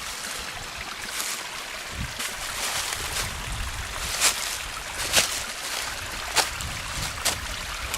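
Steady trickling, running water, with a few sharp clicks about a second apart in the second half.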